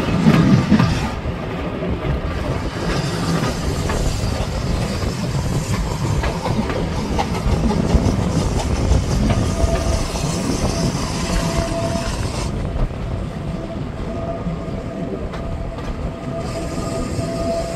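Heritage steam-hauled passenger train running, heard from a carriage window: the carriage wheels clatter steadily over the rails under a continuous rushing noise.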